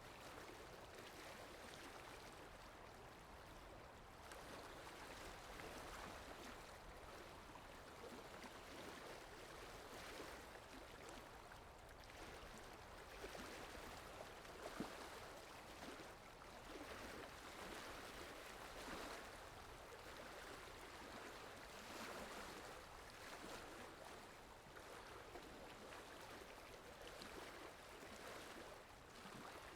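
Faint ocean waves washing, a steady watery rush that swells and eases every few seconds, with one brief sharper splash near the middle.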